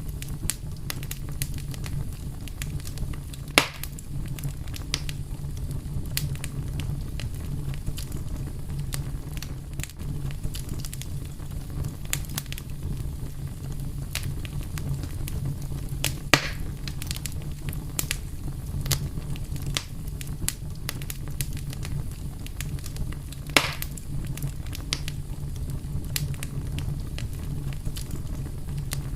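Wood fire crackling steadily, with a low rumble of flame under frequent small snaps and three louder pops, about 3.5, 16.5 and 23.5 seconds in.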